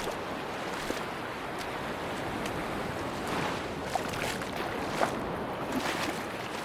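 Sea surf washing on a beach with wind, a steady rushing noise, with scattered faint clicks and ticks, the sharpest about four and five seconds in.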